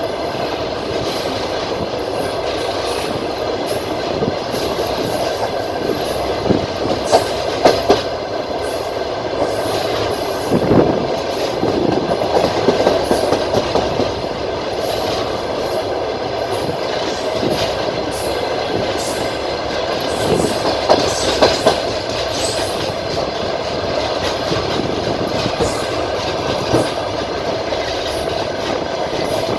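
Passenger train running along the track, a steady rolling rumble with the wheels clattering over the rail joints. A few louder knocks come about a quarter of the way in and again around two-thirds of the way through.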